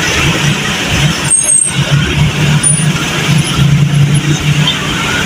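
Road traffic close by: the steady hum of a heavy vehicle's engine, a truck or bus, running slowly in a traffic jam, over a constant haze of other engines and tyres.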